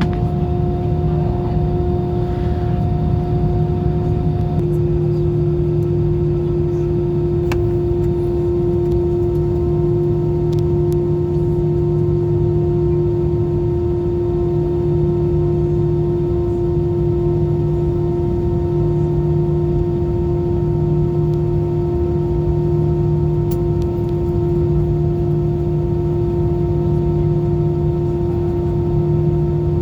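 Airbus A320 jet engines running steadily: a low hum under several held tones, which shift slightly in pitch about four and a half seconds in, the sign of a change in engine power.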